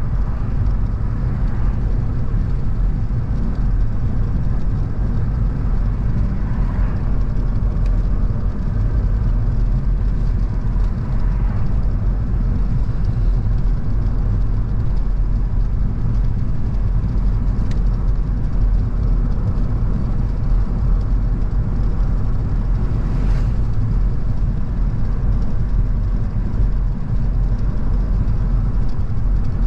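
Car driving at a steady speed: a constant low rumble of engine and tyres on the road. A brief faint swish comes about three-quarters of the way through.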